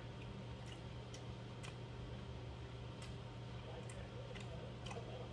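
Mouth sounds of a person chewing instant black-bean noodles: irregular soft clicks and smacks, a few a second, over a steady low hum.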